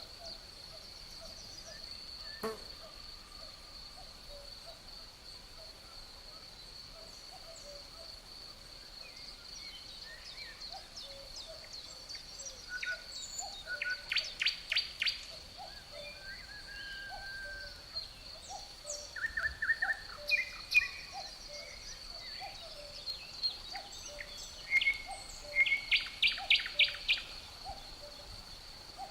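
Forest birdsong over crickets' steady high trill: songbirds call on and off, with loud rapid chirp series about halfway through and again near the end.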